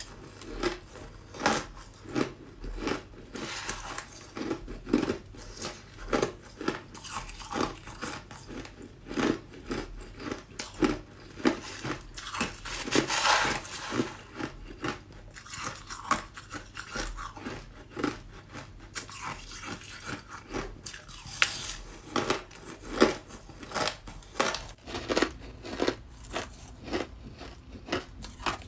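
A person biting and chewing ice close to the microphone: a dense run of sharp crunches, several a second, with a longer grinding crunch about halfway through.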